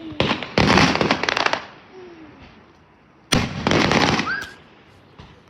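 Fireworks going off: a burst of dense crackling about half a second in, lasting about a second. Then, a little past three seconds, a sharp bang followed by another second of crackling.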